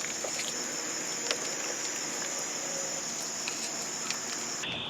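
Steady high-pitched chorus of night insects trilling, with a few faint clicks and taps scattered through it.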